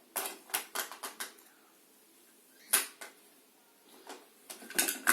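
Irregular light clicks and taps of small objects being handled. There is a quick run of about six clicks in the first second and a half, two more near the middle, then a cluster of taps near the end.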